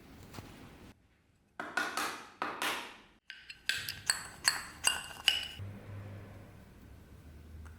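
A string of hard strikes on a resonant object, each one ringing with a clear tone: three slower ones, then six or seven quicker, brighter ones. A low steady hum comes in near the end.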